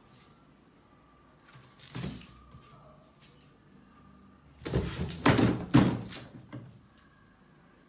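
A single thump about two seconds in, then a quick run of louder knocks and bangs around five to six seconds in.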